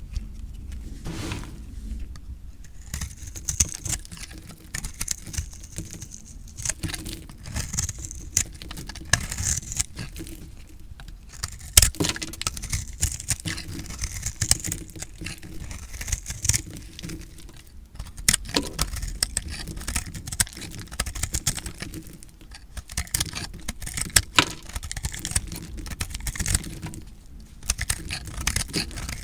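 Recycled soap being cut with a blade: a dense run of small crisp crunches and crackles, with a sharper, louder click about twelve seconds in.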